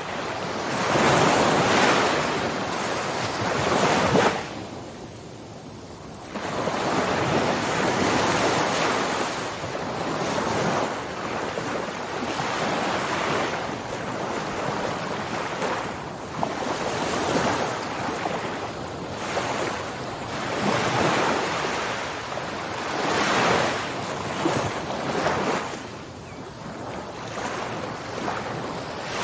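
Ocean surf: waves breaking and washing in, surging and fading every few seconds, with a brief lull about five seconds in.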